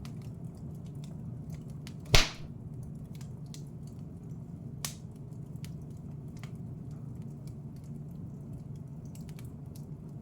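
Fire in a fireplace crackling with many small snaps over a steady low rumble, with one loud sharp pop about two seconds in and a smaller pop near the middle.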